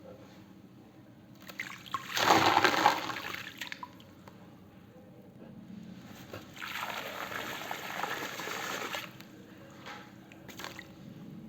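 Water and wet cement being poured and sloshed, in two spells: a loud splashing pour about two seconds in, then a steadier trickling pour from about six and a half to nine seconds.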